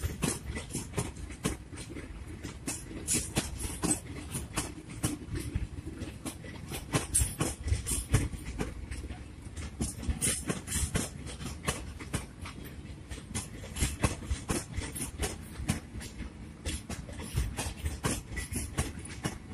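Indian Railways passenger coaches running past at speed, their wheels clacking over rail joints in a fast, uneven stream of sharp clacks above a steady rumble.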